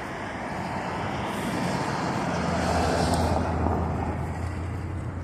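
A road vehicle driving past, its engine and tyre noise swelling to a peak about three seconds in and then fading.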